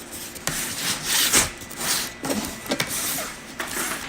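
Box packaging being handled and opened, with irregular scraping and rubbing in short bursts.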